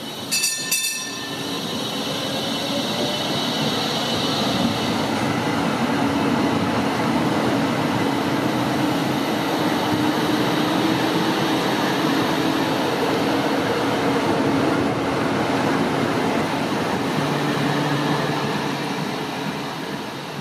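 Train passing close by: a steady rolling rumble and rushing noise builds over a couple of seconds, holds with a low steady hum, and fades near the end. Two short bright dings sound just before it.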